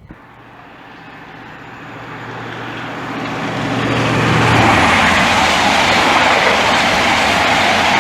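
InterCity 125 (Class 43 HST) diesel train approaching at speed and passing through. A steady low engine hum and wheel-on-rail noise build over about four seconds to a loud, steady rush as the train goes by.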